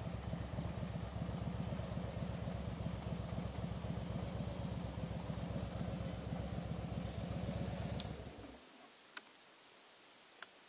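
Harley-Davidson touring motorcycle's V-twin engine running at idle with an even low pulse, then shut off about eight and a half seconds in. Two sharp clicks follow, about a second apart.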